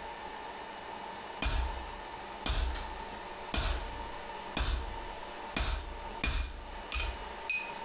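Hand hammer striking steel on the anvil, about nine sharp ringing blows at roughly one a second, a few of them in quick pairs. This is most likely the hammer driving a punch to make the pivot hole in the boss of a split-bar tong half.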